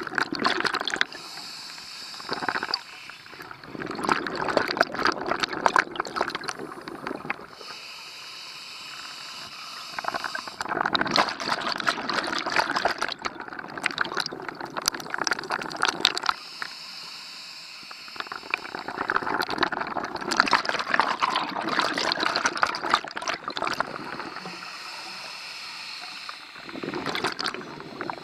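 Scuba diver breathing underwater through a regulator: a steady hiss on each inhale, then a long rush of exhaust bubbles on each exhale, about four breaths in all.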